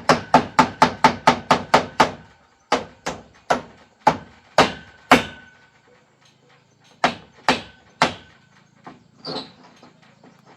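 Hammer blows: a quick run of about four strikes a second, then slower, spaced strikes in two groups, some leaving a faint ringing tone.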